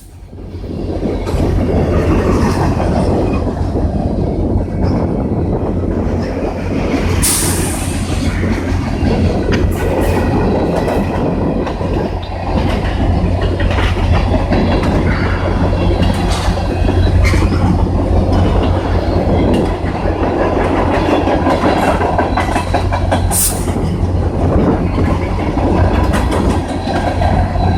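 CN freight train passing at speed: a steady rumble of steel wheels on rail with a clickety-clack of wheels over rail joints. There are short high squeals twice, about 7 s and 23 s in.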